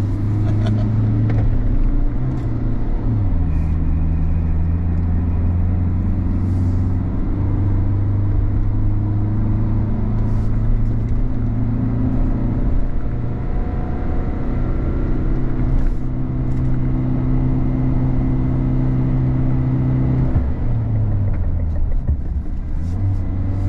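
Peugeot Landtrek pickup's 1.9-litre turbodiesel heard from inside the cabin, pulling steadily on a mountain climb. Its pitch drops twice as the revs fall, about three seconds in and again near the end.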